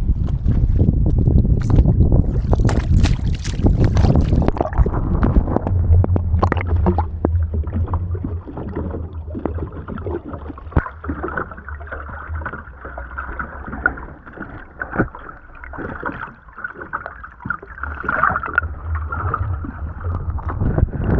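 Splashing water and wind on the microphone for the first few seconds. Then, as the action camera is held under the surface, a muffled underwater sound of water sloshing and gurgling takes over.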